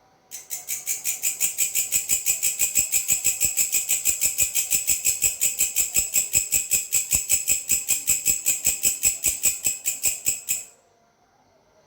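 Belalang (grasshopper-type insect) stridulating: an even, rapid train of high, sharp pulses, about six a second, that builds up over the first second or so, runs for about ten seconds and then stops suddenly.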